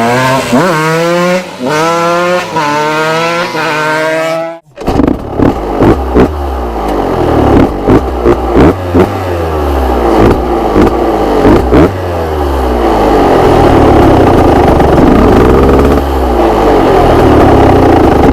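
TM SMR 125 two-stroke single-cylinder engine revved in quick repeated blips, its pitch climbing and falling several times. After a sudden cut of about half a second, the bike is heard being ridden, the revs rising and dropping with clattery ticks, then held high and steady near the end.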